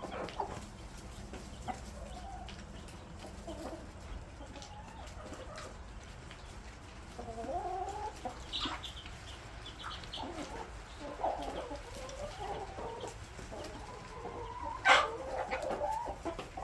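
A flock of backyard laying hens clucking and calling, many short calls overlapping, busier in the second half, with one loud sharp squawk near the end.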